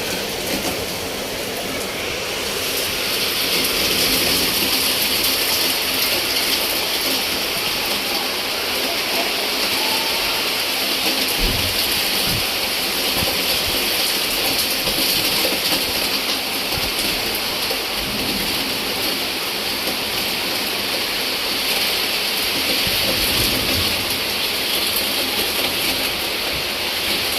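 Steady heavy rain, a dense even hiss that grows a little louder about two seconds in.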